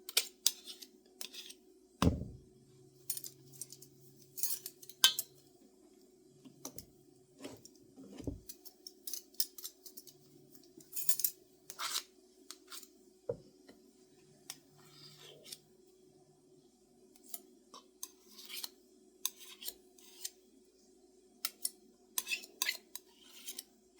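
A metal tablespoon scraping and clinking as solid shortening is scooped out and knocked off into a mixing bowl of flour: irregular short scrapes and taps, with a heavier thump about two seconds in. A faint steady hum runs underneath.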